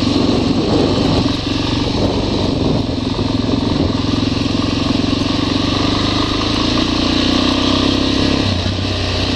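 Motorcycle engine running at a steady speed while being ridden, with wind rush over the microphone.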